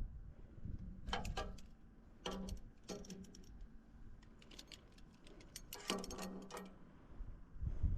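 Light clicks and clinks in three short clusters: about a second in, between two and three seconds in, and around six seconds in.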